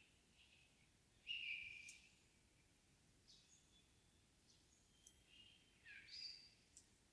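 Songbirds singing faintly in a still summer evening forest: scattered short high calls, the loudest a brief phrase just over a second in, with several more calls after.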